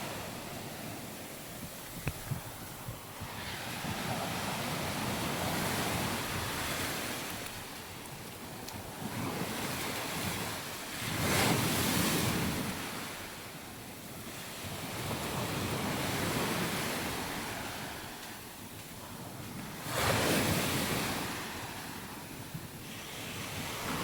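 Waves breaking and washing up a sandy beach, swelling and fading every few seconds, with the strongest surges about halfway through and near the end. Wind buffets the microphone throughout.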